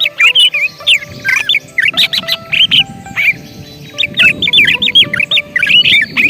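Greater green leafbird (cucak ijo) singing: rapid runs of loud, slurred whistled notes in two bursts, with a brief lull about three seconds in.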